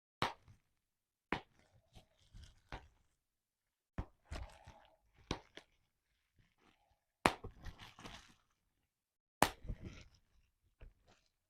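Bubble wrap popping: sharp single pops every second or two, with the plastic crinkling between them.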